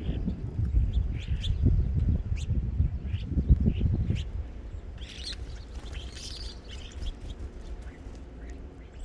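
Small birds chirping at a feeder, short high calls in a scattered run that grows busier around the middle, over a low rumble that is loudest in the first half.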